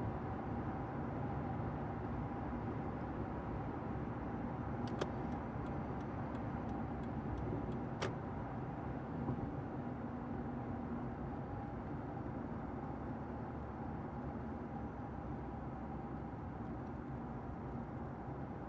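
Steady low rumble of road and engine noise inside a car's cabin while driving. A few light clicks come about five seconds in, with a sharper click around eight seconds.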